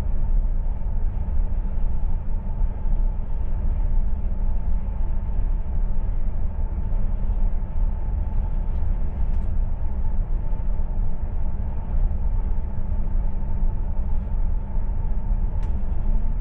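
Deutsche Bahn IC2 Twindexx double-deck intercity train running, heard from inside the passenger coach: a steady low rumble with a faint steady hum and a couple of faint clicks.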